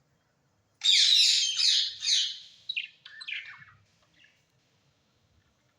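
A bird calling: a burst of quick, high chirps starting about a second in, then a few shorter, quieter notes that trail off.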